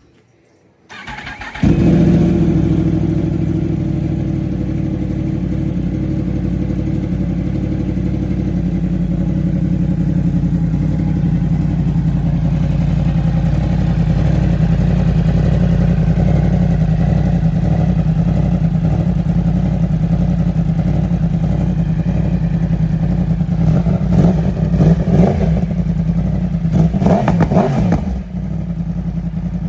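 Yamaha R1 crossplane inline-four motorcycle engine through an aftermarket Dominator GP3 exhaust, starting about a second in and then idling steadily. Near the end it is given a few quick throttle blips.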